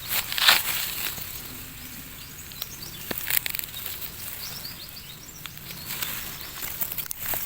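Outdoor rustling and crackling, irregular and loudest about half a second in, with a few faint high chirps near the middle.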